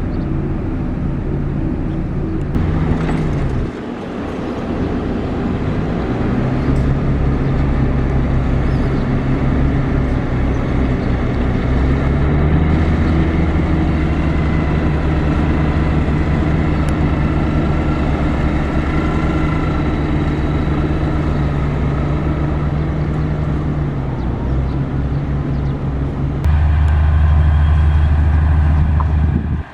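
Diesel engines of heavy road-construction machinery running steadily, their engine speed rising and falling at times. The sound changes abruptly about four seconds in and again near the end, getting louder and deeper for the last few seconds.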